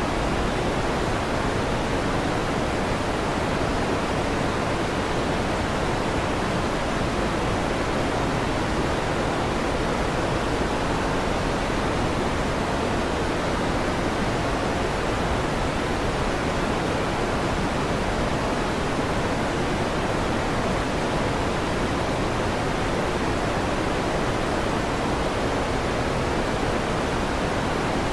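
Fan noise, a steady even whoosh that does not change.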